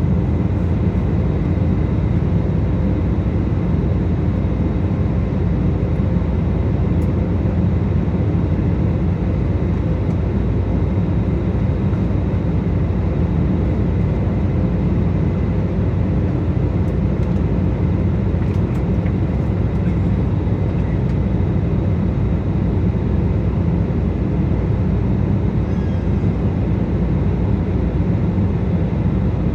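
Jet airliner cabin noise in flight, heard from inside the cabin: a steady low rumble of engines and rushing air, with a few faint thin tones above it.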